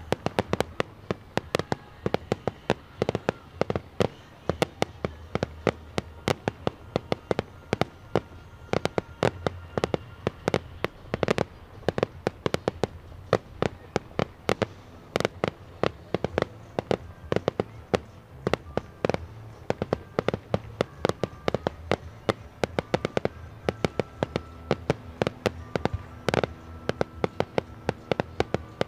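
Aerial fireworks display: a rapid barrage of sharp bangs and cracks, several a second, from many shells bursting at once.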